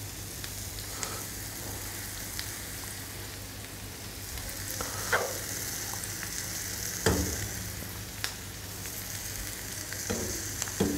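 Shredded cabbage, onion and capsicum frying in desi ghee in a pan, sizzling steadily. A few light knocks are heard as halved boiled eggs are set into the pan and a spoon touches it. A low steady hum runs underneath.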